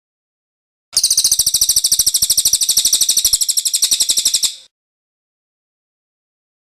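Cililin bird's rolling trill: one fast, evenly pulsed, high-pitched trill lasting nearly four seconds, starting about a second in and stopping abruptly, with dead silence on either side, as on a looped mastering track.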